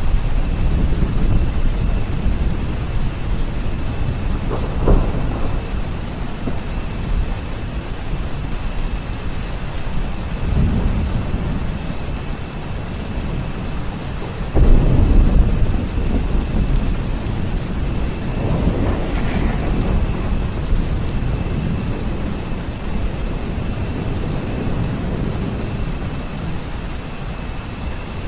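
Steady rain with rolling thunder: several low rumbles swell and fade over the rain, the loudest breaking in suddenly about halfway through.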